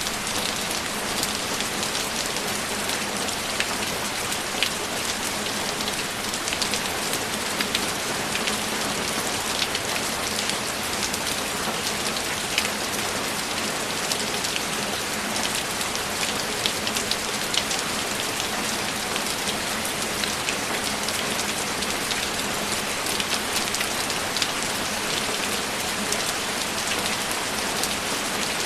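Steady rainfall, with many individual drop hits ticking out of the even hiss and no thunder.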